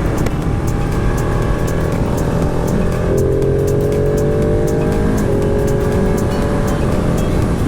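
Wind rush on the microphone over a Ducati 959 Panigale's V-twin engine running at road speed. The engine note climbs slowly and then shifts about five seconds in.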